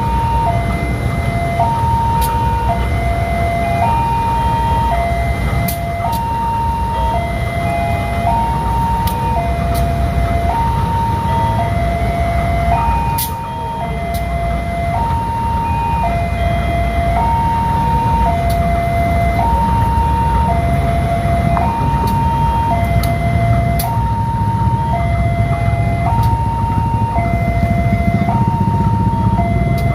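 Railroad level-crossing warning alarm sounding a two-tone electronic signal, switching between a high and a low note about every 0.7 seconds. A steady low rumble runs underneath.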